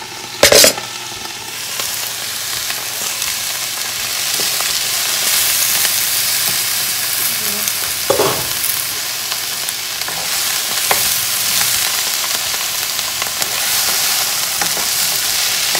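Chopped bok choy stalks sizzling and frying in hot olive oil in a frying pan, stirred with a wooden spoon; the sizzle thickens about two seconds in. A loud sharp knock about half a second in and a smaller one near the middle.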